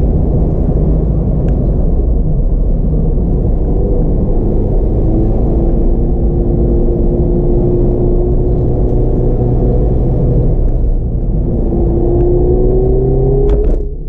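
Mazda MX-5 RF's four-cylinder petrol engine heard from inside the cabin over road rumble, pulling steadily. Its pitch climbs over the last few seconds, then a couple of sharp clicks and a short drop in level come right at the end.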